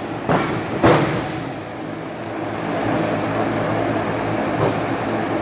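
Steady din of a wrestling crowd, with two sharp impacts from the ring within the first second.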